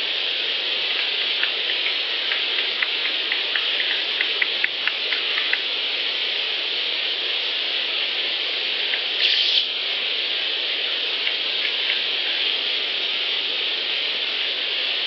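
A run of short clicks, about four or five a second for several seconds, like a ratchet or a big dial being turned, over a steady hiss of outdoor field-recorder ambience, with a brief rushing burst near the end. The recordist calls it the ratchet sound and attributes it to Sasquatch; its true source is unknown.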